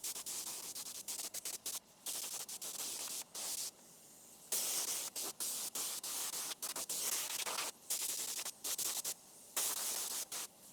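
Spray gun applying paint in a series of short and longer hissing bursts, each starting and stopping sharply with the trigger.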